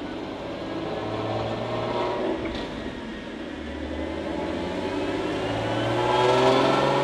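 Ford Mustang 3.7-litre V6 fitted with BBK shorty headers revving under load on a chassis dynamometer. The engine note climbs, dips briefly about two and a half seconds in, climbs again, and eases off near the end.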